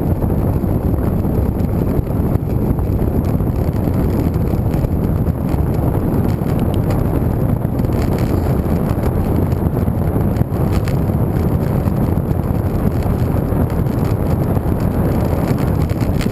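Wind buffeting the microphone of a camera riding along on a moving road bike: a steady, loud low rumble.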